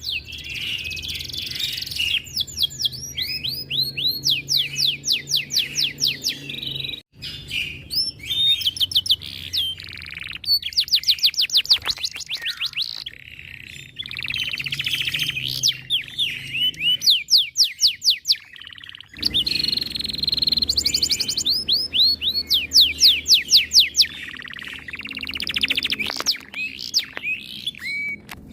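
Domestic canary singing: fast trilled rolls of high sweeping notes, many a second, in runs broken by short pauses.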